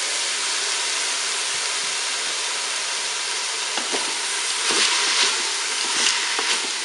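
Frozen green beans sizzling and hissing steadily as they hit hot oil with browning pork in a Cookeo multicooker's bowl set to browning mode. A wooden spatula stirs them, with a few faint scrapes in the second half.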